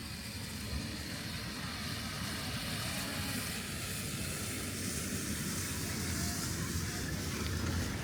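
A steady low rumble with a faint hiss over it, slowly growing louder.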